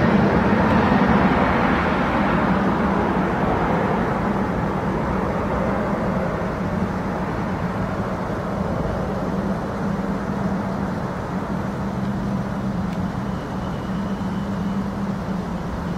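Jet airliner engines roaring as the aircraft moves away, the sound fading slowly with a steady low hum underneath.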